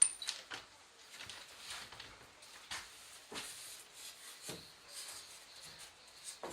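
A sharp click right at the start, then faint, scattered knocks and taps, like handling and moving about in a small room.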